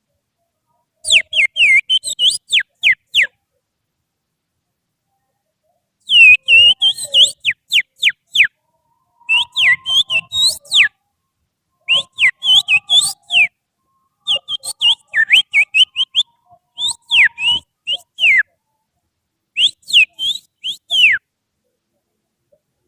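Finger whistling that imitates an oriental magpie-robin's (kacer) song: about seven short, loud phrases of quick, sharply falling whistled notes, with pauses between them. It is whistled as a lure to set a caged kacer singing back.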